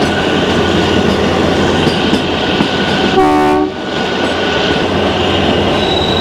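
Kalka–Shimla narrow-gauge toy train running, with steady rolling noise heard from aboard a coach. About three seconds in, the locomotive's horn gives one short blast of about half a second.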